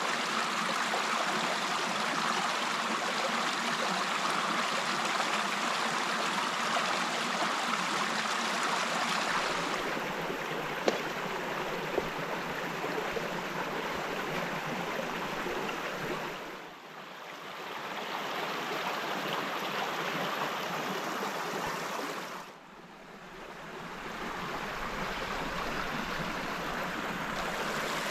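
Steady rushing of a forest stream, with two short clicks about a second apart near the middle. The water sound dips briefly twice and comes back.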